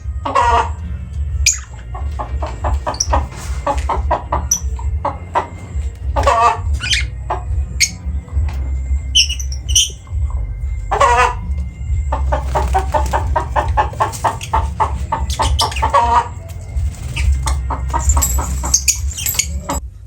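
Birds calling in rapid clucking-like chatter, short fast pulses in repeated runs, with a few brief high chirps, over a steady low hum.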